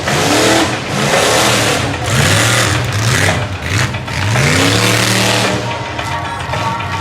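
Monster truck engine revving hard in a string of quick throttle blips, each rising in pitch, then held high for about a second before easing off near the end.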